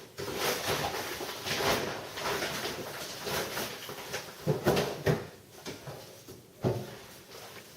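Rustling and handling noise of containers being moved about, then a few sharp knocks, two close together in the middle and one more near the end.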